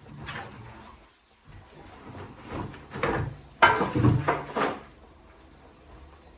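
A series of knocks, scrapes and rattles from hard objects being handled and set down, loudest from about three and a half to four and a half seconds in.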